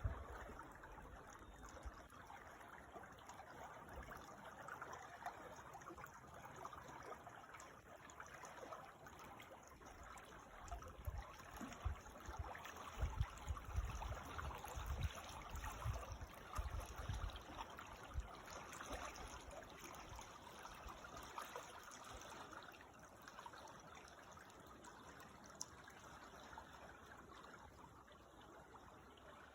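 Creek water trickling and babbling steadily, faint. Through the middle stretch it is joined by intermittent low rumbles.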